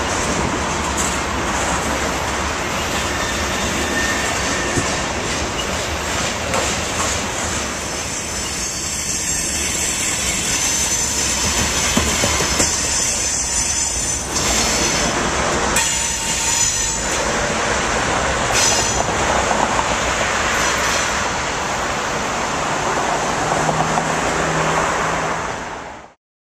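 Freight train of covered hopper cars rolling past on a curve: steady wheel-on-rail noise with rhythmic clicking over the rail joints and high wheel squeal. A low diesel locomotive engine hum comes in near the end, and the sound cuts off suddenly.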